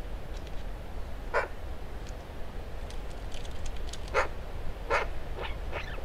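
Short, harsh calls of a bird off camera: one about a second and a half in, then a cluster of four from about four seconds in, over a low steady rumble.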